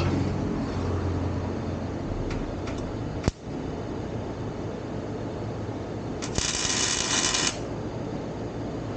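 A sharp click about three seconds in, then a welder's arc crackling in a burst of about a second, over a steady low hum.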